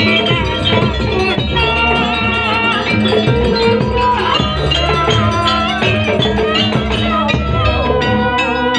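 Live jaranan music: a gamelan-style ensemble with ringing struck metal percussion over drums and a wavering melody line, playing continuously.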